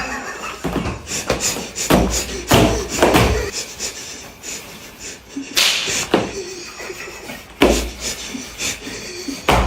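A series of heavy thumps and slaps, about six irregular hits, with quieter rustling between them.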